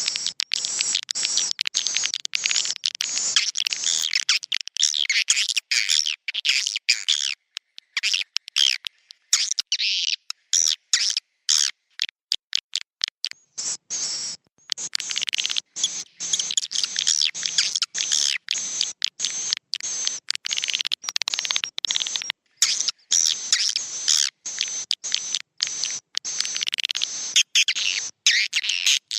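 Swiftlets twittering: a dense, fast chatter of short high chirps from many birds. This is a swiftlet-house roosting call ('suara inap'), played to draw the birds in to roost and nest. The chatter thins out for a few seconds about a third of the way through, then comes back as thick as before.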